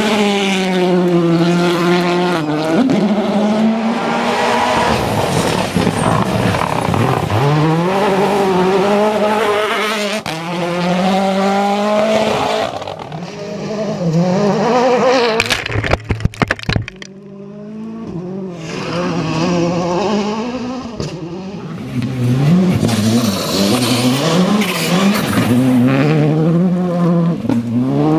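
World Rally Cars' turbocharged 1.6-litre four-cylinder engines at full throttle, pitch climbing through each gear and dropping sharply on the shifts, one run after another. About sixteen seconds in, in a quieter stretch, comes a quick run of sharp cracks.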